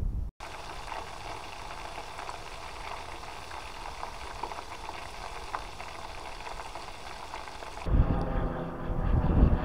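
Food deep-frying in hot oil: a steady sizzle with many small crackles. About eight seconds in it cuts off suddenly to a louder low rumble.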